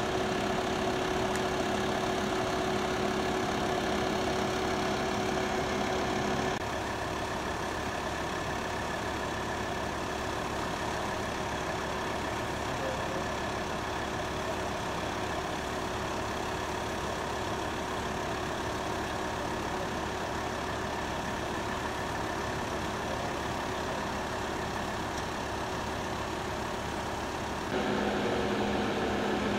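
A vehicle engine idling steadily, a continuous hum with a few steady tones. It drops to a quieter, plainer hum about six seconds in and returns to the fuller hum near the end.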